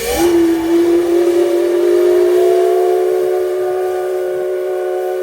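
Steam locomotive C56 160's whistle blown in one long blast: its chord slides up a little as the whistle opens, then holds steady.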